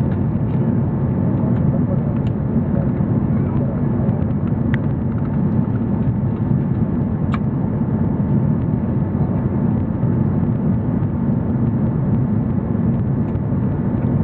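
Steady roar inside the cabin of a four-engined Airbus A340-300 on its landing approach: engine and airflow noise, low and even, with a few faint clicks.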